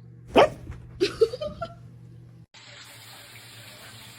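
A loud short cry followed by a few quick pitched squeaks that step upward. Then, about two and a half seconds in, a steady rush of running water like a tap or a filling tub.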